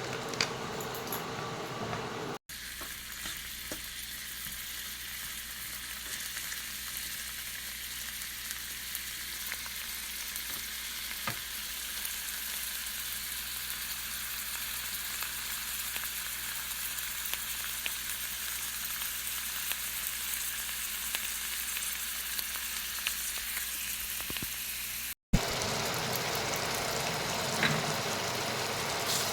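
Chicken korma frying in hot oil in a pan, with a steady sizzle and a few light stirring scrapes. The sound drops out for an instant twice, a couple of seconds in and near the end.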